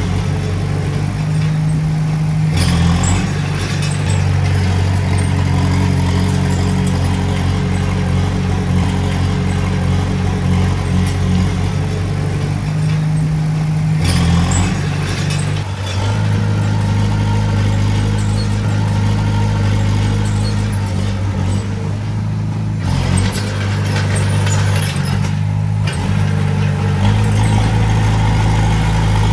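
Komatsu D20A bulldozer's diesel engine running under load, its pitch stepping up and down several times as it works, with a few short spells of clatter.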